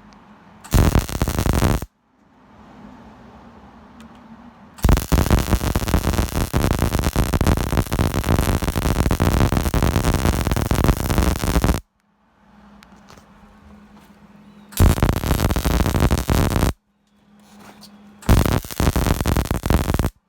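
MIG (gas-shielded wire-feed) welder arc crackling and sizzling in four runs: a short tack about a second in, one long bead of about seven seconds, then two shorter beads near the end. Each starts and stops abruptly, with a low steady machine hum between them.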